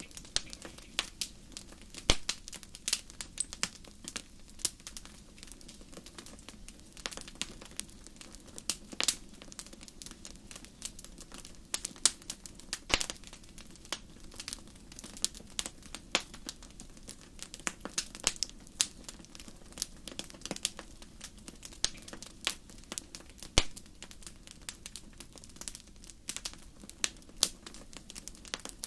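Wood fire crackling in a fireplace: irregular sharp pops and snaps, a few much louder than the rest, over a low steady rumble of the flames.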